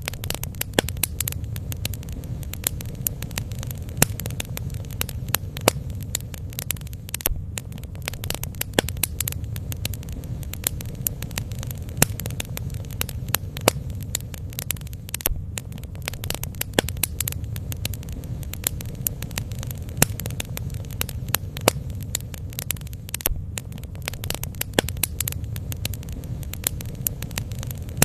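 Bonfire burning, with a steady low rush and frequent irregular crackles and pops from the burning wood.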